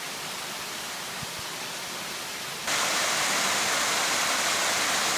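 Steady rushing of a waterfall, stepping up abruptly to a louder level about two and a half seconds in.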